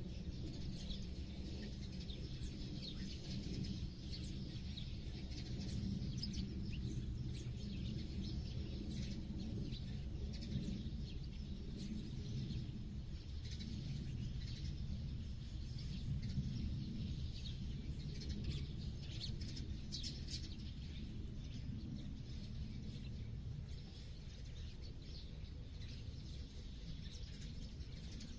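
Many small songbirds chirping, short quick calls overlapping throughout, over a steady low rumble.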